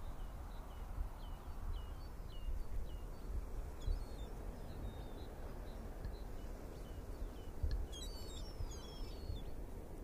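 Steady outdoor background noise with faint, high bird chirps scattered through it and a brief flurry of chirps about eight seconds in.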